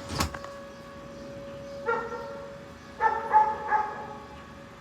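A dog barking, once about two seconds in and then a quick run of three barks a second later, over the faint, steady single tone of a distant tornado siren. A short knock comes right at the start.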